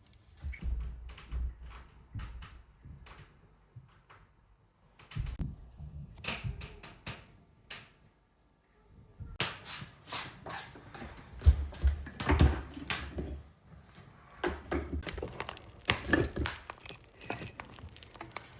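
Kitchen work: irregular taps and knocks of utensils against a cutting board and dishes in a small room, with a brief silence about eight seconds in.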